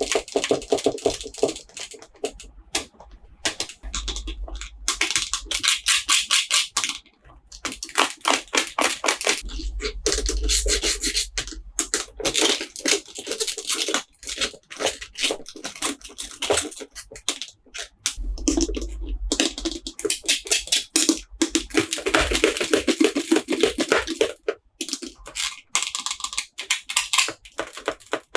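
Toy packaging being handled and opened close to the microphone: rapid, irregular crinkling, scratching and clicking of plastic and cardboard, with a few dull bumps.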